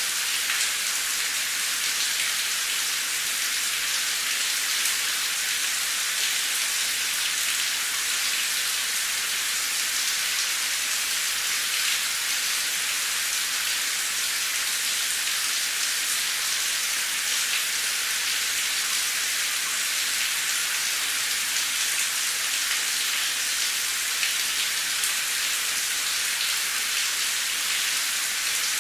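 Steady rain falling on a street, droplets hitting concrete: a dense, even hiss, mostly high in pitch, with fine individual drop ticks throughout.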